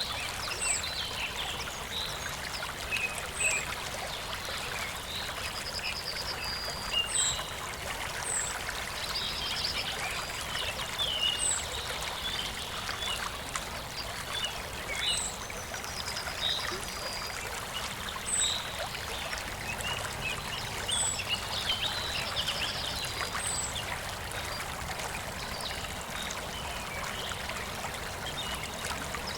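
Running stream trickling steadily, with songbirds calling over it: short high chirps every second or two and a few brief trills.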